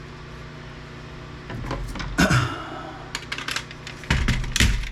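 Knocks, clicks and clatter of plastic and metal parts as a small motor is worked loose from inside a DVD player, loudest about two seconds in and again near the end.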